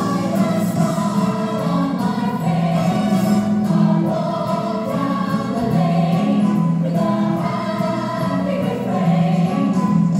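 Music: a choir singing, with long held notes.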